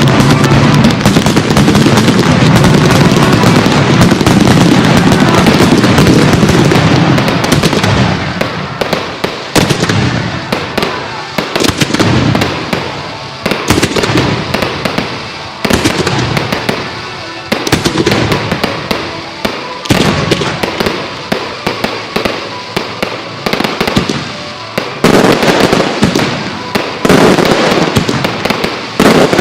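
Fireworks display: a dense, continuous barrage of bangs for the first several seconds, then rapid separate bangs and crackles several a second, building back into a dense barrage near the end, with show music playing underneath.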